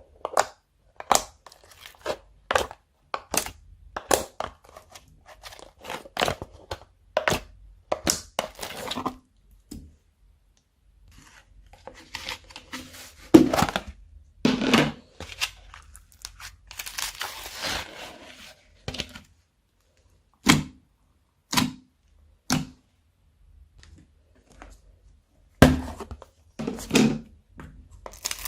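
Slime being squeezed, stretched and folded by hand, making sharp pops and clicks. The pops come about once a second at first, give way to longer noisy squishing stretches in the middle, and turn scattered near the end.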